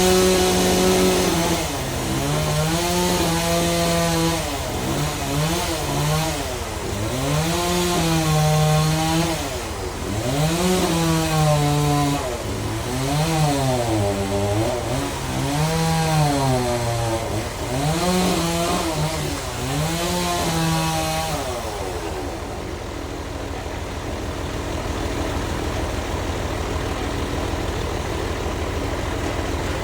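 Bandsaw sawmill machinery running through a trembesi log, its motor pitch rising and falling every second or two as the load changes. After about twenty seconds the tone settles steadier and a little quieter.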